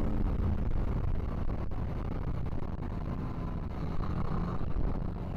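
BMW G 310 GS single-cylinder motorcycle engine running steadily while riding.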